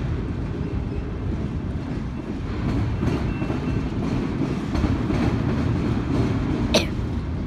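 Freight train of autorack cars rolling past close by: a steady low rumble of the wheels on the rails, with repeated faint clicks. A short sharp high-pitched sound stands out near the end.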